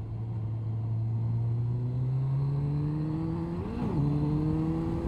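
Honda CBR1100XX Blackbird's inline-four engine accelerating under throttle, revs climbing steadily. Nearly four seconds in there is an upshift: the revs flare briefly and then drop to the next gear because the throttle was not closed during the shift. The engine then pulls and climbs again.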